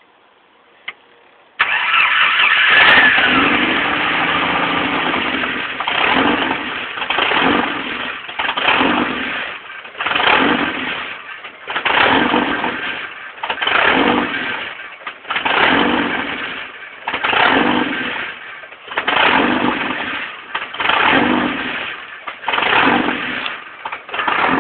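1989 Jeep Comanche's 2.5-litre four-cylinder engine starting about a second and a half in, then running with a rise and fall in speed that repeats roughly every second and three quarters. The owner puts the trouble down to a bad fuel pump.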